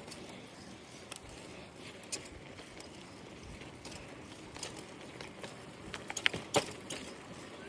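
Bicycle riding on a sidewalk: a steady rolling noise with scattered clicks and rattles, and a few sharper clicks about six seconds in.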